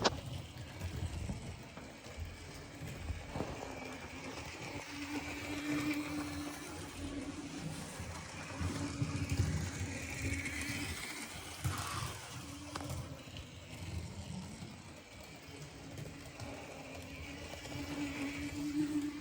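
Model railway train running on the track: a small electric locomotive motor hums over the clatter of wheels on rail joints, the hum swelling twice as the train comes by.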